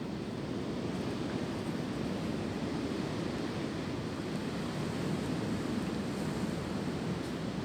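Wind blowing through tree branches: a steady, deep rushing without breaks, swelling and easing only slightly.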